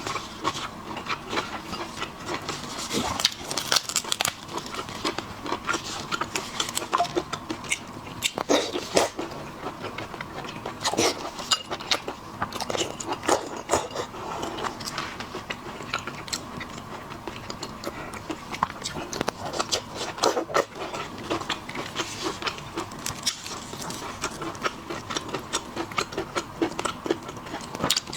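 Close-miked eating of shellfish: wet chewing and mouth sounds with frequent irregular clicks and crackles of shell and flesh.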